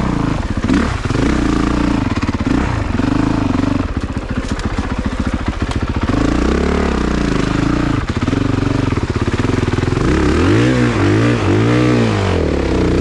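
A 2022 Honda CRF450RX dirt bike's single-cylinder four-stroke engine running under load, then revved up and down several times in quick succession near the end. This is the bike being pushed through a deep, muddy hole where the front tire sinks.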